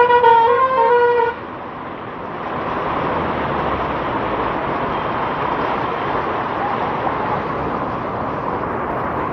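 A vehicle horn sounding with a wavering, stepping pitch, cutting off about a second in, followed by a steady rushing noise of the rain-soaked, flooded street.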